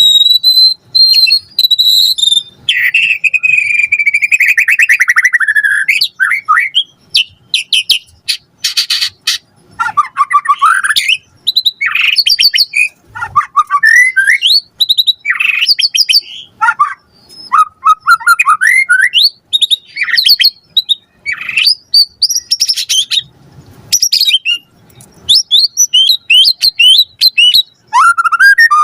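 White-rumped shama (murai batu) singing a loud, varied song packed with mimicked phrases. Its phrases mix clear whistles, a buzzy warble, rapid rattles and quick sweeping notes, separated by short pauses.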